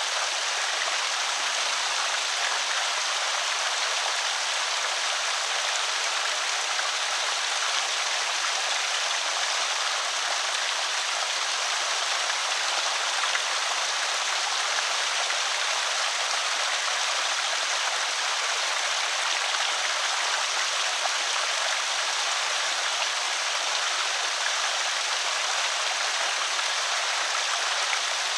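Water pouring steadily over a small creek spillway, an even rushing splash.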